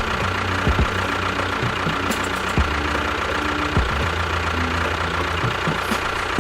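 A small engine running steadily, its low hum shifting pitch a few times, with a steady high whine and several short knocks.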